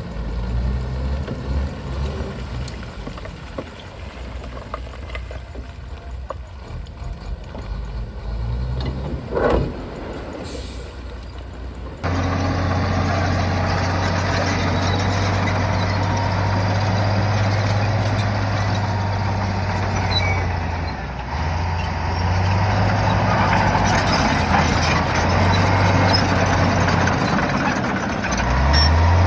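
Heavy bulldozer's diesel engine running, with a short burst of sound about nine seconds in. About twelve seconds in the sound jumps suddenly louder to a steady low engine drone that holds to the end.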